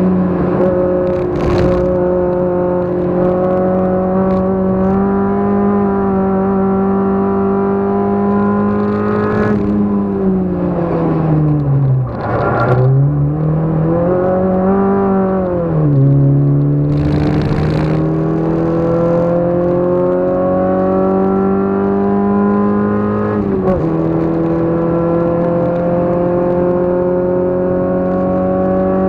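Car engine heard from inside the cabin on track, held at high revs under load. About ten seconds in the revs fall steeply and climb back, then dip briefly twice more at gear changes before rising slowly again. Short rushes of harsher noise cut in now and then, the longest about seventeen seconds in.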